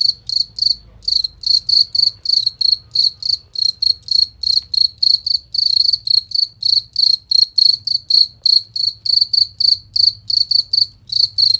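Cricket chirping loudly and steadily: a clear, high-pitched chirp repeated about four times a second without a break.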